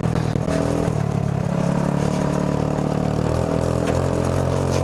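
Go-kart engine running hard at full throttle at about 34 mph, a steady drone that shifts slightly in pitch a couple of times.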